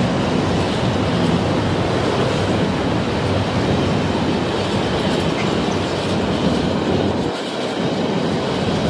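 High-speed electric train running past at speed on High Speed 1: a loud, steady rush of wheel-on-rail and air noise over a low rumble. The low rumble briefly drops away about seven seconds in.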